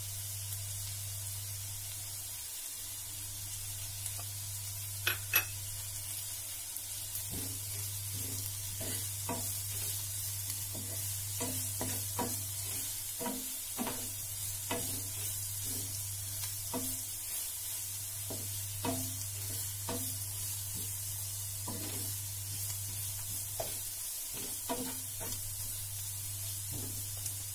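Sliced onions and curry leaves sizzling in hot oil in a non-stick frying pan, with a steady low hum underneath. From about a quarter of the way in, a wooden spatula stirs them in quick strokes, knocking and scraping against the pan about twice a second. Two sharper clicks come just before the stirring starts.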